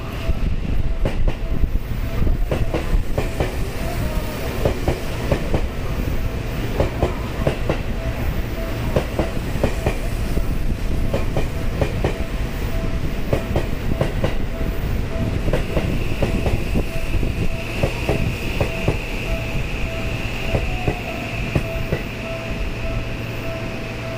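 Seibu Railway electric commuter train running past close by, its wheels clacking over rail joints and points in a run of irregular clicks over a low rumble.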